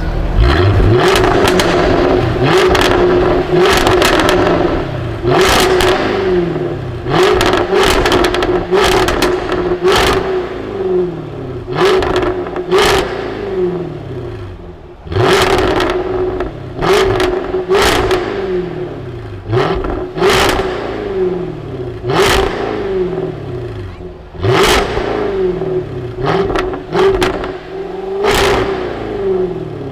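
High-performance car engine revved hard in quick, repeated blips, about one every second and a half. After each blip the revs fall back toward idle, over a steady engine drone.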